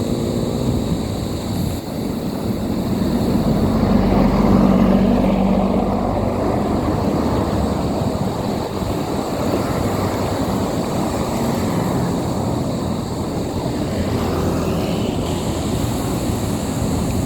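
Vehicle engine running steadily under a constant rush of wind noise while riding, swelling a little about four to six seconds in.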